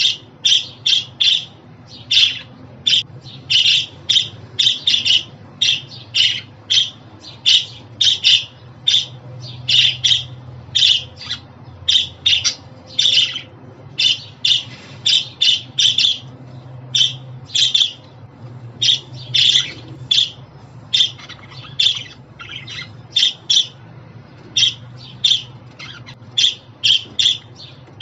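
Budgerigars calling: rapid short chirps and squawks, several a second, in clusters with brief pauses, over a faint low hum.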